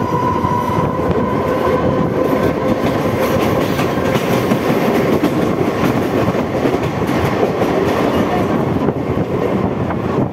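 Mumbai EMU suburban electric train running at speed, heard from an open coach doorway: a loud, steady rumble of wheels on rails with the clickety-clack of the rail joints. A faint whine sits over it in the first half.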